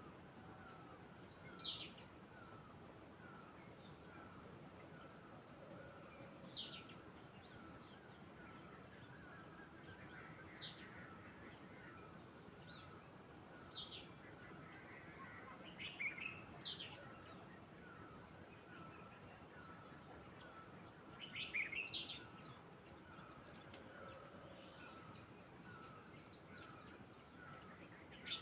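Wild bird giving short, sharp calls that fall steeply in pitch, one or two at a time every few seconds, over a steady, even series of quick low notes about two or three a second and a constant soft hiss.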